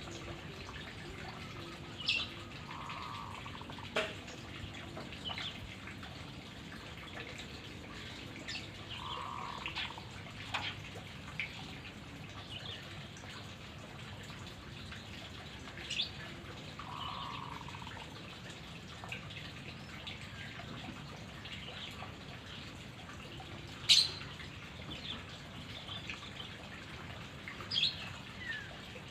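Sparse short bird chirps and calls, a few seconds apart, over a steady low hiss; one sharp chirp near the end stands out louder.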